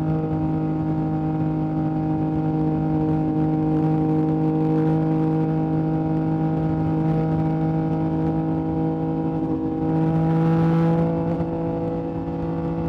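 Yamaha MT-09's inline three-cylinder engine through an Akrapovic exhaust, running at a nearly steady speed on the move. It gets a little louder about ten seconds in.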